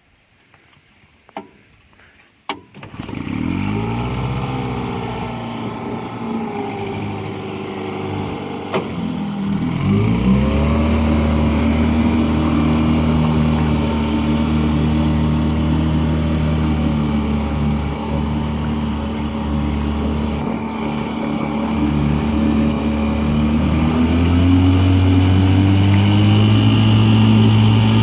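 1958 Johnson CD-15 5.5 hp two-stroke twin outboard motor starting about three seconds in after two sharp clicks, then running steadily. It is throttled up around ten seconds in to a louder, steady run, and steps up again near the end.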